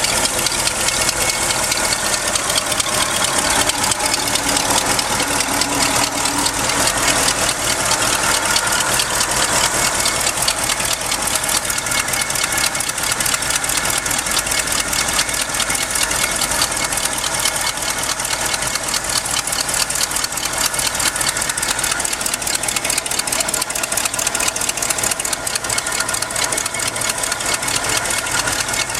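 1974 Ford F-250's original 360 FE V8 idling steadily.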